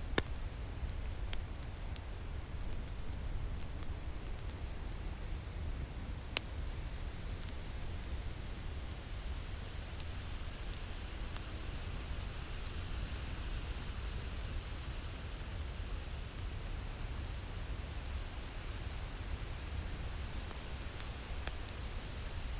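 Winter wind blowing in a steady low rumble with a hiss that swells in the middle, over the sparse pops and crackles of a fire.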